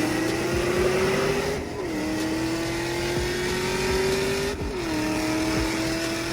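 Car engine accelerating hard through the gears: its note climbs steadily, drops sharply at an upshift about a second and a half in, climbs again, and drops at a second upshift about four and a half seconds in.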